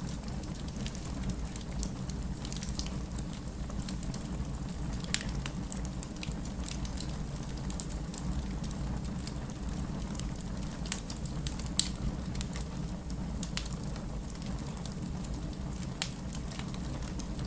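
Wood fire crackling in a fireplace: a steady low rumble of burning logs with scattered sharp pops and snaps, the loudest about twelve seconds in.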